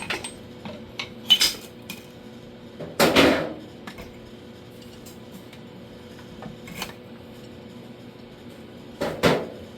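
Metal clinks and clanks of steel body tools and sheet metal being handled, with a louder clank about three seconds in and another near the end.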